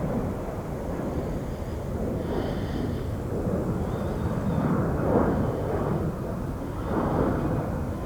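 Jet engines of an Airbus A380 landing: a deep, steady rumble that swells about five seconds in and again near the end, with a faint high whine above it.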